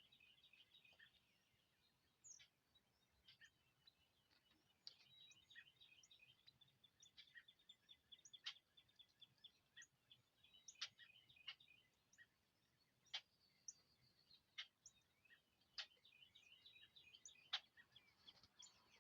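Songbirds calling faintly: sharp, high, downward chirps every second or so over a fast twittering chatter.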